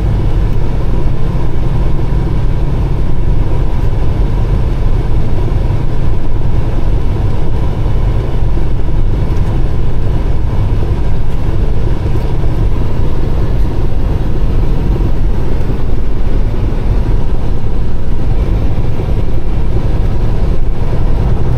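Peterbilt 389 semi truck's diesel engine running steadily under load, a constant low drone with road noise from the cab while driving.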